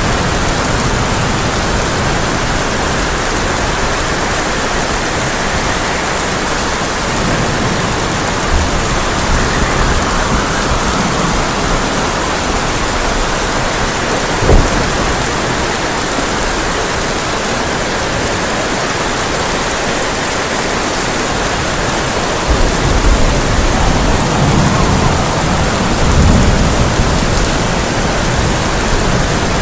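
Heavy rain falling steadily on a tin roof, with one sharp bang about halfway through and thunder rumbling over the last several seconds.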